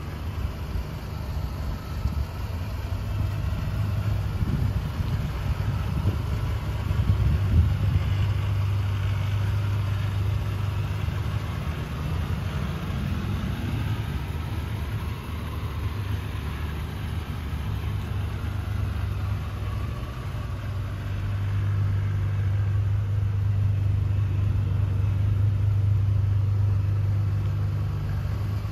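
Ferrari 550 Maranello's 5.5-litre V12 idling steadily with an even low hum, growing somewhat louder about three quarters of the way through.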